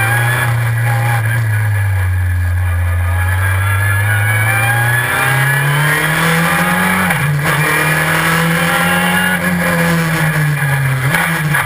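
Onboard sound of a Super FJ single-seater race car's engine running hard under load. Its pitch holds steady, jumps up about five seconds in, dips briefly around seven seconds, and drops near the end, the pattern of gear changes through a dog-ring gearbox.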